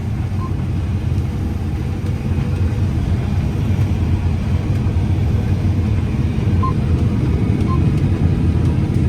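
Harvest machine running steadily, a low engine and machinery rumble as heard from inside the cab, with a few faint short beeps.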